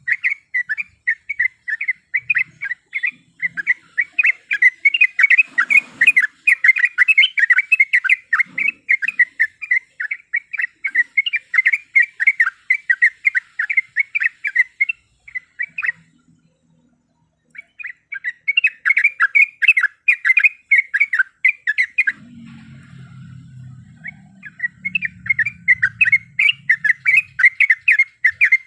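Sooty-headed bulbul (trucuk) calling in a fast, dense stream of short chirping notes, breaking off twice for a second or two.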